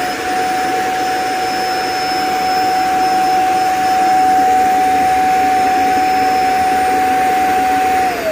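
Robot vacuum's auto-empty station running its suction motor at full speed to empty the dust bin: a loud, steady whoosh with a high whine, which begins to wind down falling in pitch at the very end.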